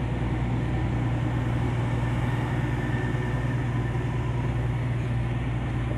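Ship's engine machinery running with a steady low drone.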